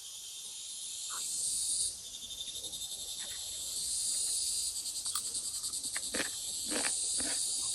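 A chorus of insects such as crickets trilling steadily and high-pitched, with a fast even pulse.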